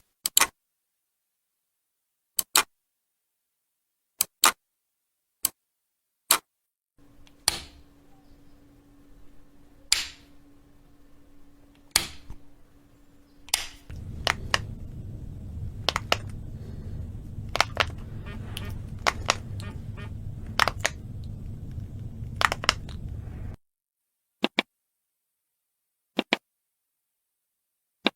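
A series of sharp button clicks, spaced a second or two apart. In the middle stretch the clicks come faster, over a low background hum and noise.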